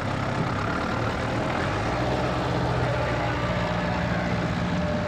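Heavy pulling-tractor engine idling steadily, its note shifting slightly about two seconds in.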